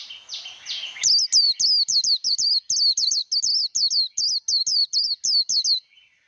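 White-eye singing its fast, competitive líu song: a few high descending notes build up, then about a second in a loud, rapid run of sharp, wavering high notes, about four a second, which stops shortly before the end.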